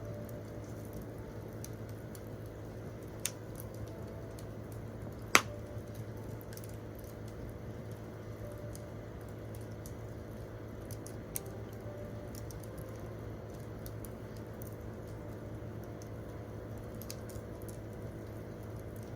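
Wood campfire crackling, scattered small ticks and snaps with one sharp pop about five seconds in, over a steady low rumble of the fire.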